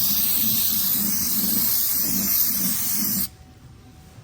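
Aerosol cleaner spraying in one long, steady hiss that cuts off sharply about three seconds in; a short sharp click right at the end.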